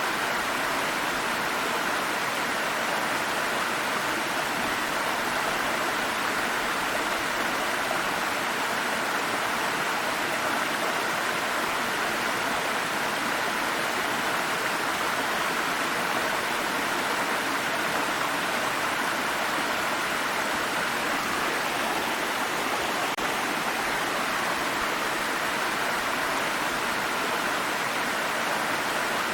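Stream of water running and splashing, a steady rush of flowing water that does not change.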